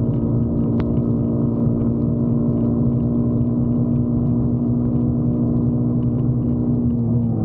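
Motorcycle engine running at a steady cruising speed, an even drone over low wind and road rumble; the revs begin to fall right at the end.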